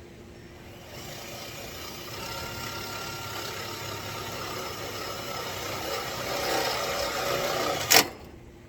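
Cordless drill driving a self-tapping screw into sheet metal: a steady motor whine that starts about a second in and grows louder under load, ending with a sharp snap as it stops.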